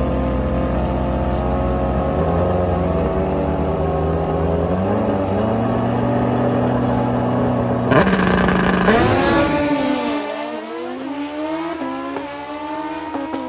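Drag-racing motorcycle engines at full throttle down the strip, the pitch climbing and dropping back with each gear shift. About eight seconds in the sound cuts abruptly, and the engine note then falls and wavers as the bike comes off the throttle.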